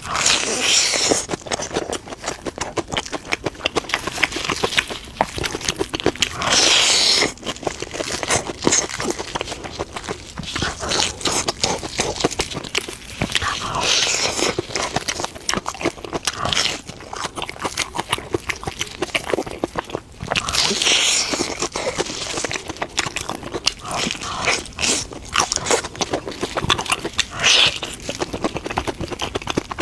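Close-miked eating: chewing and biting with many small crunchy, crackling clicks throughout. Louder hissing bursts of about a second come roughly every seven seconds.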